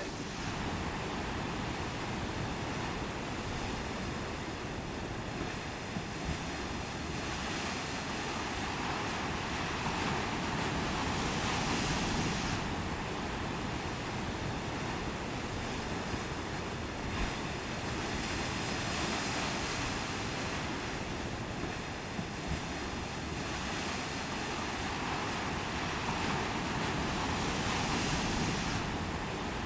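Ocean surf washing steadily, with wind on the microphone. The wash of the waves swells louder about a third of the way through and again near the end.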